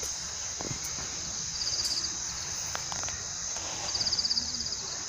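Insects in a steady high-pitched chorus, with one caller repeating a short, rapid pulsed trill about every two and a half seconds, twice here.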